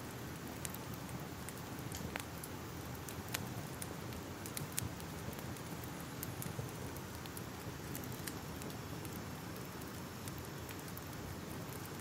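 Crackling fire: a steady hiss with irregular sharp pops and snaps scattered throughout.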